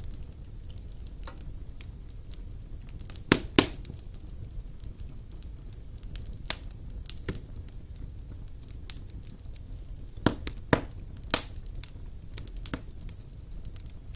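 Wood fire burning in a fireplace: a steady low rumble of flames with irregular sharp crackles and pops, the loudest a pair about three and a half seconds in and a cluster of three a little past ten seconds.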